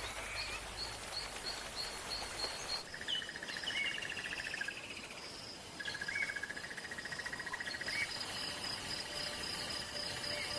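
Natural outdoor ambience of calling birds or insects: a high chirp repeated about three times a second, then long pulsing trills at two pitches, each starting with a short upswept note, overlapping one another.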